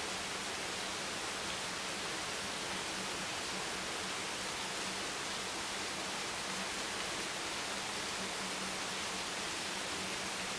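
Steady rain: an even, unbroken hiss with no distinct drops, and a faint low hum beneath it.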